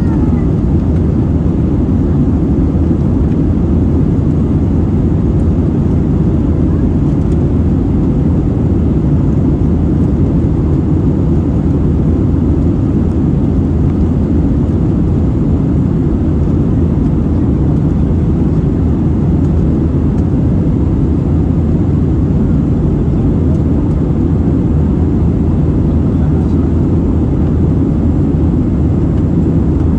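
Airbus A320 cabin noise: the steady low rumble of the jet engines and air, heard from inside the passenger cabin, unchanging throughout.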